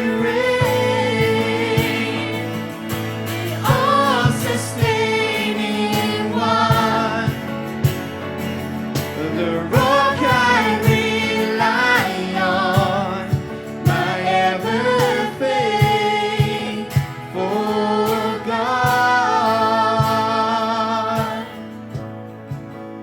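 Christian worship song: sung vocal melody with instrumental backing and a steady beat. The music fades down near the end.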